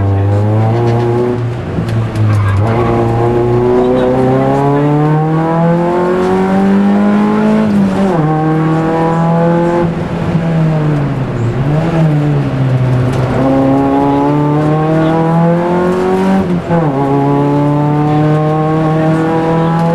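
Rally car engine heard from inside the cabin, pulling hard through the gears. Its pitch climbs and then drops sharply at each gear change, four times. Near the middle it eases off and dips twice before pulling again.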